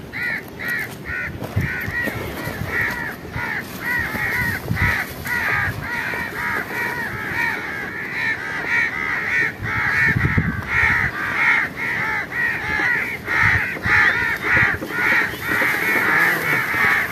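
A flock of birds calling continuously: a steady stream of short, arching calls, several a second, overlapping one another.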